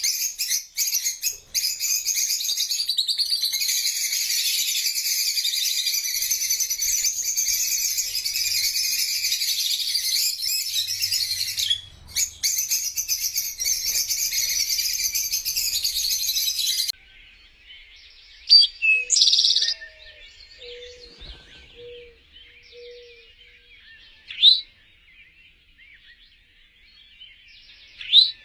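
Dense chorus of many small birds chirping and twittering at a high pitch, which cuts off abruptly partway through. After that come a few separate, sharper single bird calls against a quieter background.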